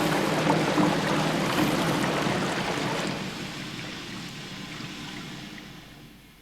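Toilet flushing, the rush of water fading gradually away over several seconds into tape hiss.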